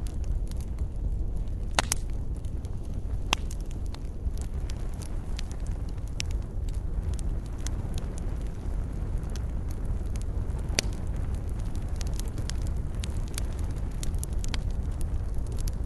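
Campfire burning: wood fire crackling and popping with irregular sharp snaps, over a steady low rumble of the flames.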